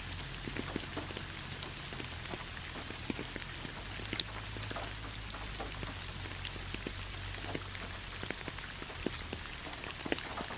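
Steady rain falling, an even hiss dotted with many separate drop strikes, over a steady low hum.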